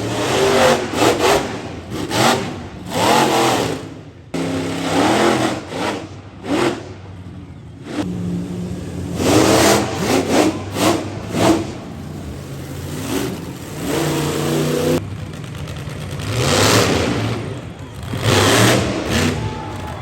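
Monster truck engine revving hard in repeated surges, the pitch climbing and dropping with each burst of throttle, with several abrupt breaks.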